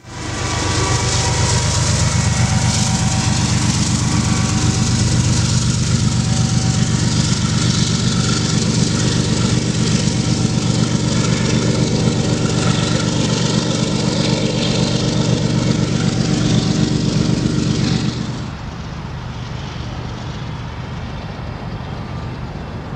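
Double-stack intermodal freight train passing close by: a steady rumble and clatter of wheels on rail mixed with the drone of a BNSF diesel locomotive. About 18 seconds in the noise drops suddenly as the train's end goes by, leaving a fainter rumble as it moves away.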